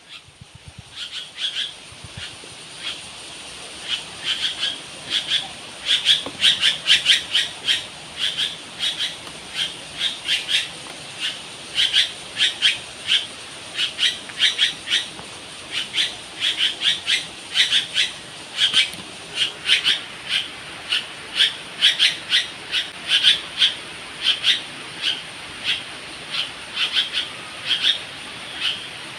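Birds calling: a busy run of short, sharp, high chirps, several a second, throughout, over a faint steady high hiss.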